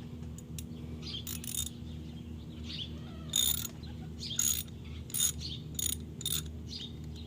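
Socket ratchet wrench with a 10 mm socket clicking in several short bursts as it is worked back and forth on a nut of the minibike, over a steady low hum.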